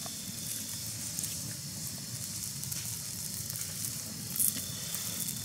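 A steady sizzling hiss with fine crackling.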